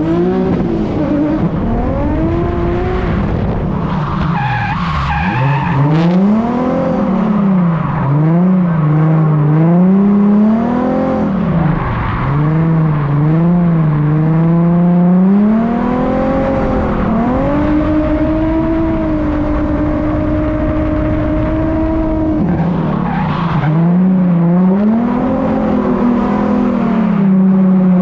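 A drift car's engine revving up and down over and over as the throttle is worked through a slide, with tyre skidding noise on a wet track. The revs hold steady and high for a few seconds past the middle, then drop and swing up and down again.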